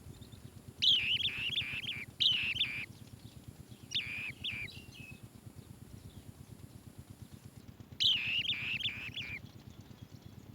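Asian green bee-eater calls: four bursts of rapid trilled chirps, the first two close together, a shorter one in the middle and a longer one near the end, over a low, fast pulsing rattle.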